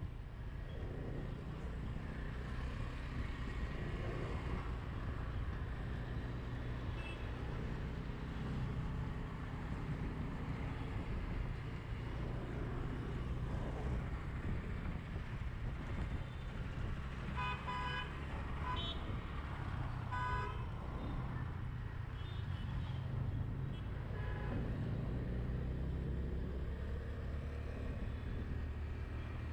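Steady rumble of riding through city traffic. Vehicle horns honk several times, in short blasts, a little past the middle.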